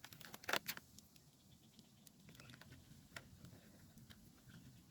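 Faint clicks and light taps of equipment being handled while it is packed away, with a short cluster of sharper clicks about half a second in and scattered single ticks after.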